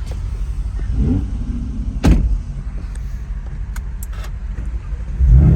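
Car engine running under way with a steady low rumble, revs rising briefly about a second in and a sharp pop about two seconds in, then a louder surge of engine noise near the end.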